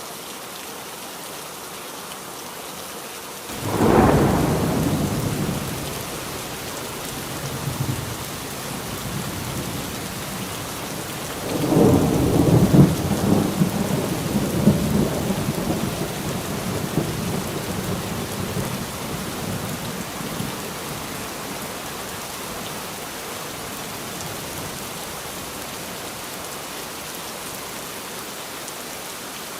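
Steady heavy rain, with two rolls of thunder: a sudden crack and rumble a few seconds in, then a longer rolling peal starting just before halfway that fades away over several seconds.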